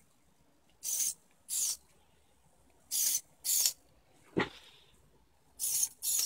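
Small hobby servo motors of a 3D-printed robot arm whirring in short bursts, about a third of a second each, in three pairs as the joints move. A single sharp click comes a little past the middle.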